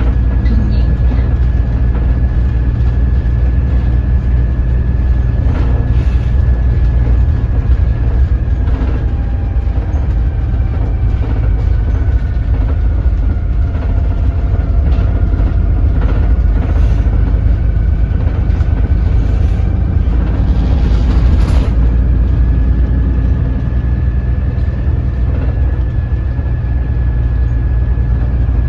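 Doosan DL08K diesel engine of a Daewoo BS106 city bus running at low speed with a heavy, steady rumble. A thin high whine rides over it, sagging in pitch through the middle and rising back near the end, with scattered clicks and rattles.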